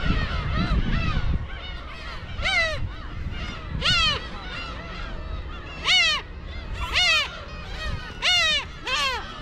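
A colony of black-tailed gulls calling: many overlapping mewing calls, with about six loud nearby calls, each rising briefly and then falling in pitch. There is a low rumble in the first second and a half.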